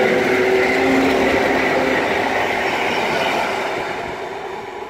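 EN57 electric multiple unit running past at close range, the rumble of its wheels on the rails, then fading from about three and a half seconds in as the last car goes by and it moves away.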